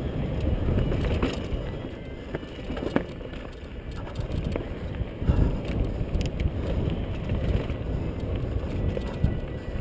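Mountain bike riding down a trail: wind buffeting the microphone over the rumble of the tyres, with a few sharp knocks and rattles from the bike.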